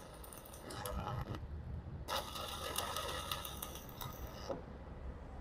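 Stick-welding arc from a Lucky Star 285S inverter welder with a 3.2 mm electrode, crackling as it blows through 5 mm steel plate. The arc breaks off about a second and a half in, strikes again about half a second later, and stops near the end.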